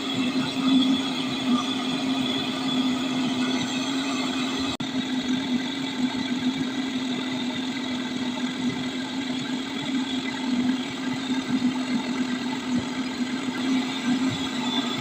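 A motor running steadily with a constant, even hum that drops out for an instant about five seconds in.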